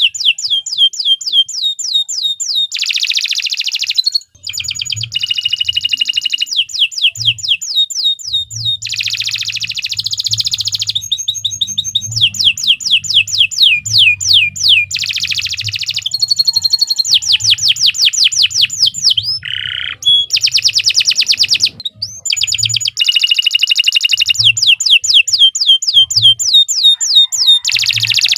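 Domestic canary singing a long, nearly unbroken song: runs of fast repeated falling notes, each run a different trill, mixed with short raspy chattering passages, pausing only briefly a few times.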